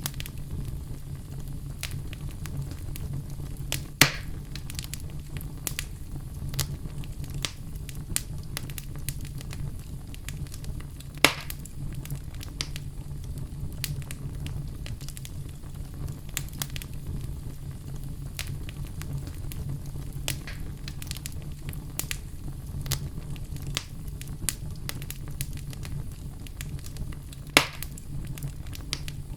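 Oak logs burning in a fireplace: a steady low rumble of flames under constant small crackles, with three louder sharp pops, about 4, 11 and 27 seconds in.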